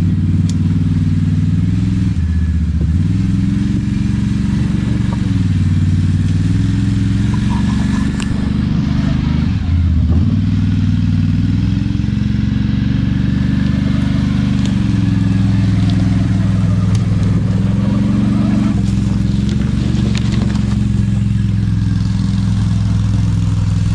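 ATV engine running at low revs as it is driven, its pitch shifting up and down several times as the throttle changes.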